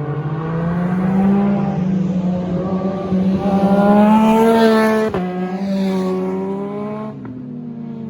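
A car engine accelerating hard, its pitch rising through the revs, then dropping sharply at an upshift about five seconds in and again about seven seconds in.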